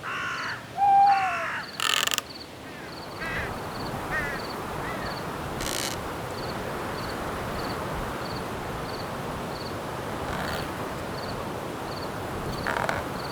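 Crows cawing a few times in the first two seconds, with one loud, short falling call among them. Under it, crickets chirp in a regular faint pulse about two or three times a second, and a steady hiss of wind in the trees fills the rest.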